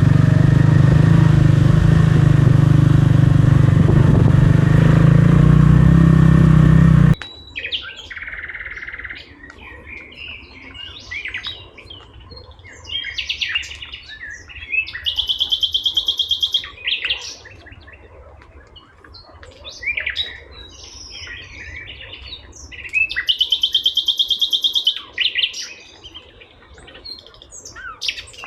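A motorcycle engine runs steadily under way and cuts off abruptly about seven seconds in. Then wild birds sing and chirp, with two loud, rapid, high trills of about two seconds each.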